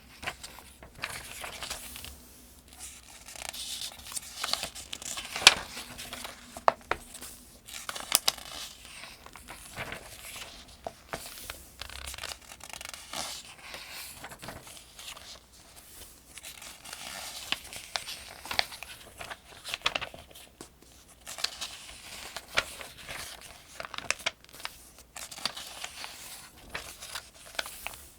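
Pages of a Farmers' Almanac being turned one after another: paper rustling and sliding, with a crisp snap as each page flips over, the loudest about five seconds in.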